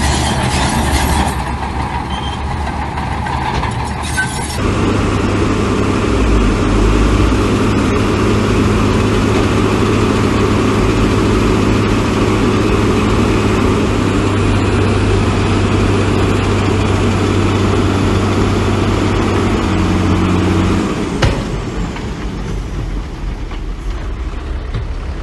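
Heavy diesel engines of earthmoving machines running steadily under load. The sound changes abruptly about four seconds in and again near the end, where one clip gives way to another.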